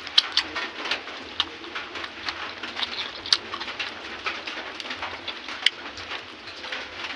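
Close-up eating sounds: irregular sharp clicks and smacks of chewing and mouth noises, a few each second.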